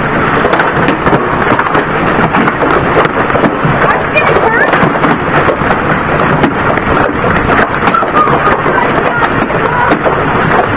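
Heavy hail pelting down: a loud, dense, unbroken clatter of countless small impacts.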